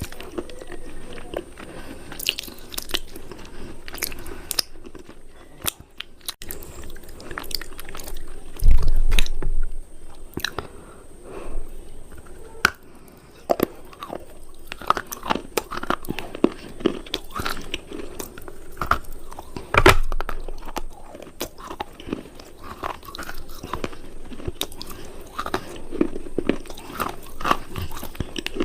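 Close-miked biting and chewing of hard, crumbly cubes: a dense run of short, crisp crunches with mouth sounds. Two dull heavy thumps, about nine and twenty seconds in, are the loudest sounds.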